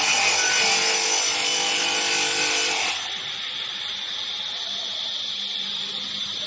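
Large CNC router cutting wood, loud for about the first three seconds with a buzzing note in the cut. The machine then runs on with a steady high whine.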